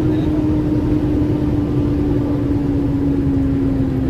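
Truck engine running steadily over a dense low rumble, its drone sinking slowly in pitch as it slows.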